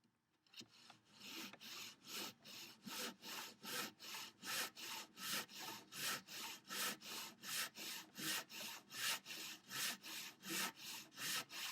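Handsaw crosscutting a thick wooden workbench leg to length, in quick even strokes of about three a second that start about half a second in.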